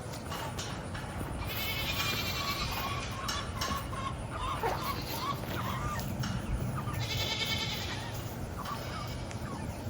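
Goats bleating, a few drawn-out calls spread across several seconds.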